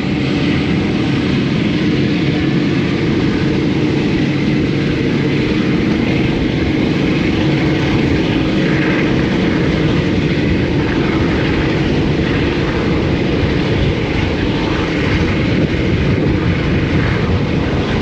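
Passenger train running along the line, heard from on board a carriage: a loud, steady rumble of wheels on rail with rushing wind noise and a faint steady hum.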